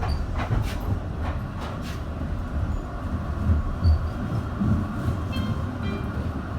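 Düwag M8C light-rail tram running on its track: a steady low rumble with scattered sharp clicks.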